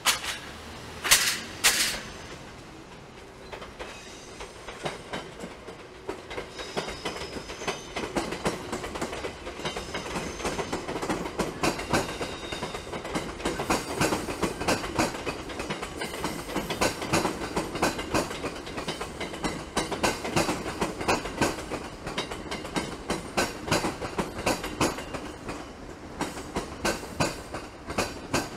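Train rolling slowly through a rail yard, its wheels clacking over rail joints and points in a long, uneven run of clicks that grows louder as it goes. About a second in, two short loud bursts of noise stand out.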